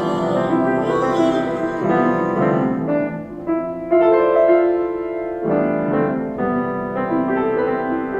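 Piano playing a slow sequence of sustained chords that change every second or so, with a brief high shimmer in the first couple of seconds.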